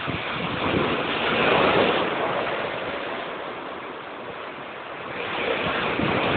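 Heavy surf breaking and rushing. The roar swells to a peak about two seconds in, eases off, then builds again with another wave near the end.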